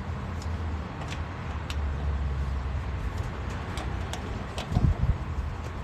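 Steady low engine rumble, with a few light metallic clicks from a wrench on lug nuts being checked by hand, and a couple of low thumps near the end.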